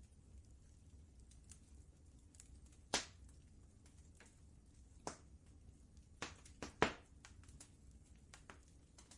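Wood fire crackling: scattered sharp pops and snaps at irregular moments, the loudest about three seconds in and a cluster near seven seconds, over a low steady rumble.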